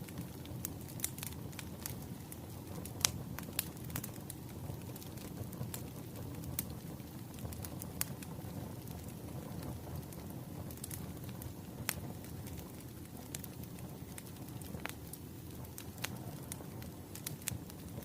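Wood fire crackling: a steady low rumble of flames with irregular sharp pops and snaps.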